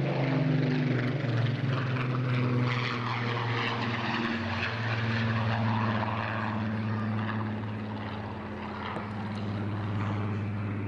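Rolls-Royce Griffon V12 engine of a Supermarine Spitfire PR XIX running as the aircraft flies by, a steady propeller drone whose pitch drops about four seconds in as it passes and moves away.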